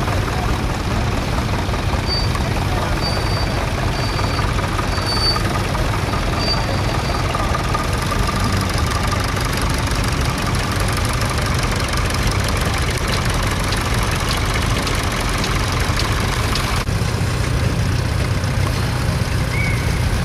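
Vintage tractor engine running steadily, with a few short high peeps in the first few seconds.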